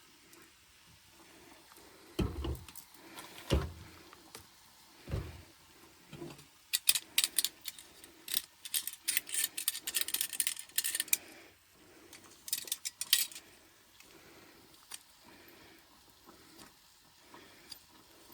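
Dishes and metal utensils being handled at a camp kitchen. A few dull knocks come first, then several seconds of quick light clinking and rattling, and after a short pause a briefer burst of clinks.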